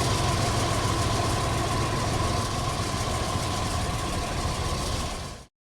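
Amtrak Empire Service train with its P32AC-DM diesel-electric locomotive running, a steady rumble and rush with a low hum and a faint tone, easing slightly in level. The sound cuts off abruptly about five and a half seconds in.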